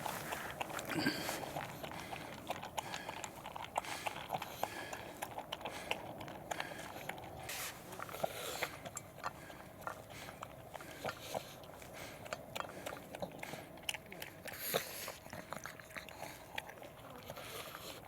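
A pug eating, crunching and chewing its food with irregular rapid crunches.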